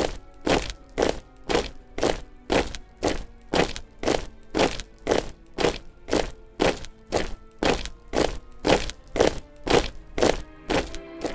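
Heavy boots marching in step, an even cadence of about two thudding, crunching steps a second, over faint music.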